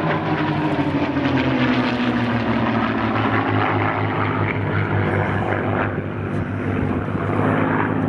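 Piston-engine propeller aircraft flying past, loud and steady. Its engine note drops in pitch over the first few seconds as it goes by.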